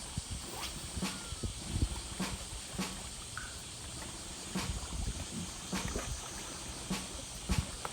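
Irregular light knocks and clicks over a steady low rumble, with a short high chirp twice.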